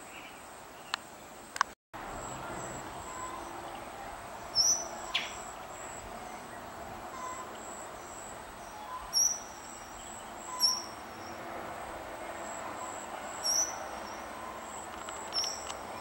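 A bird giving short, sharp, high-pitched call notes, repeated every one to three seconds. Under the calls runs a steady high insect trill.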